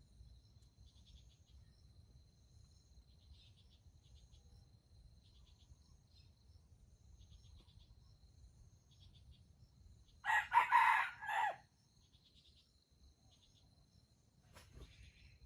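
A rooster crows once, about ten seconds in, a single crow lasting about a second and a half. Behind it, crickets chirr steadily, and a sharp click sounds near the end.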